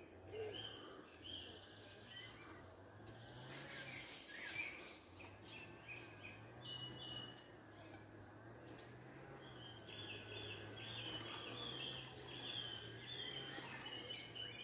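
Faint songbird chirping and singing, with a run of quick repeated chirps in the last few seconds. A low steady hum runs underneath.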